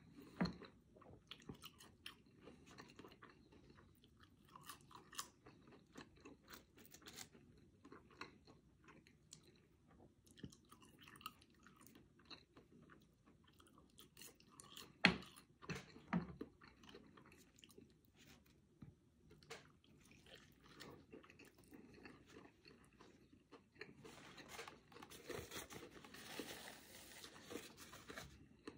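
Close-up chewing and crunching of French fries and a bacon cheeseburger, with small clicks and mouth sounds, a sharp click about 15 s in and a denser, crackly stretch near the end.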